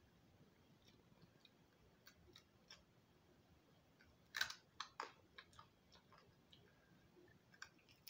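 Faint crunching and clicking of someone chewing a fried guinea pig's crispy foot and claws, with a louder cluster of crunches about four and a half seconds in.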